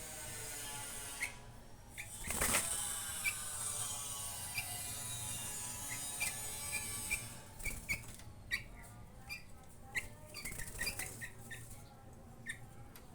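Young sooty-headed bulbul giving short, scattered chirps, with a brief flurry of wing flapping about two and a half seconds in.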